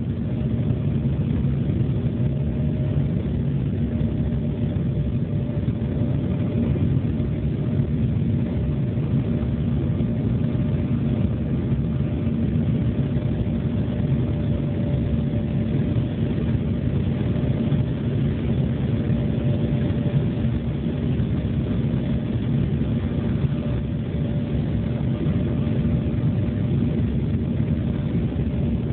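Steady cabin noise of an Embraer E-175 airliner in flight, its General Electric CF34 turbofans running with a deep rumble and a steady hum, unchanging throughout.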